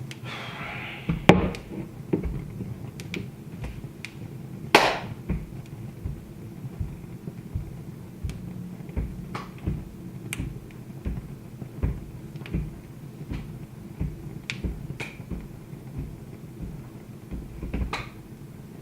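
Wood fire crackling in a fireplace: irregular small pops with a few sharp, louder snaps, over a low steady hum.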